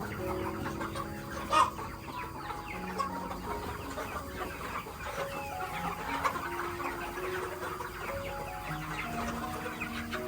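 A flock of chickens clucking and chirping continuously, over soft background music with slow held notes. A brief, sharp, louder noise stands out about one and a half seconds in.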